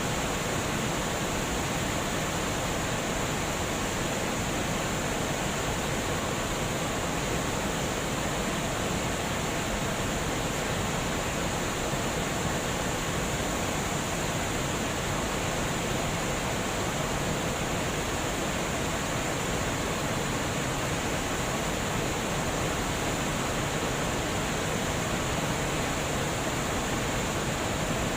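Water rushing steadily over a dam or weir, a constant even rush with no breaks.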